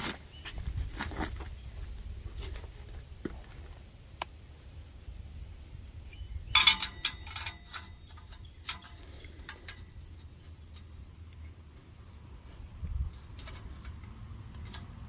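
Metal hardware clinking and clattering as an exhaust tip and its clamp are handled, with a loud cluster of ringing clinks about six and a half seconds in, over a low rumble.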